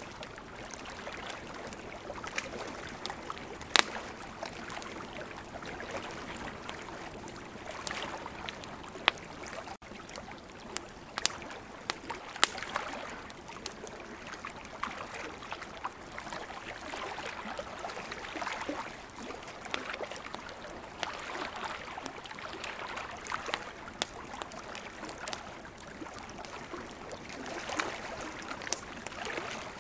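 Campfire crackling, with sharp irregular pops and snaps, over a steady wash of ocean waves that swells and eases every few seconds.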